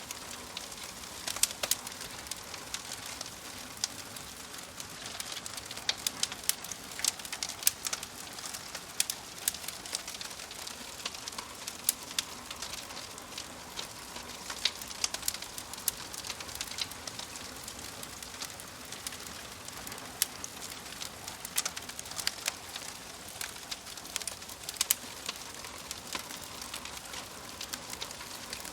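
Fireplace fire crackling: a steady hiss with frequent sharp, irregular pops and snaps.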